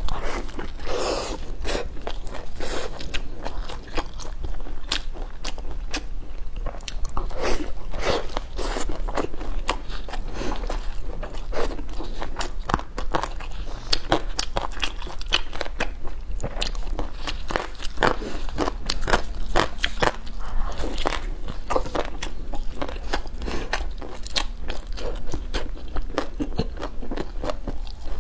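Close-miked biting and chewing of crispy green onion pancake, a continuous run of crunchy crackles and mouth sounds, over a low steady hum.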